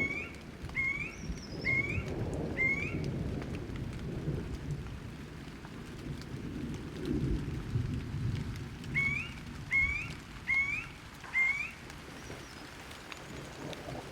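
Rain with thunder rumbling low and unevenly, and a bird calling two runs of short rising chirps: about five at the start, then four more about nine seconds in.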